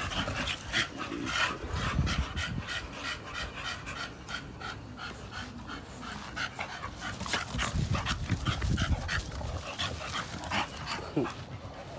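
Dogs playing, panting with quick rapid breaths, with scuffling and a few heavier low thumps as they tussle and run.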